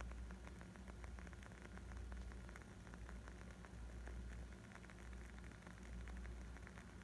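Faint crackling of a burning wood fire: a dense run of small, quick pops over a low rumble.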